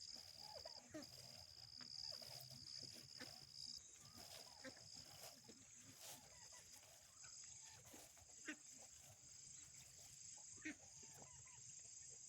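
Quiet farmyard: a faint steady high insect drone, with soft, scattered short calls from turkeys and two small clicks late on.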